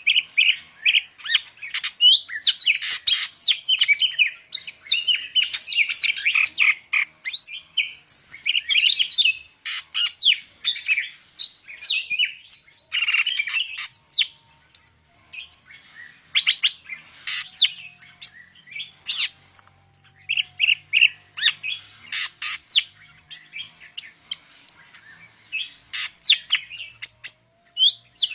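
A male cucak ijo (green leafbird) of the Medan type singing a long, loud, varied song. It strings together rapid chirps, trills and quick whistled glides almost without pause, in the rich "full isian" style that bird keepers play to get other leafbirds singing.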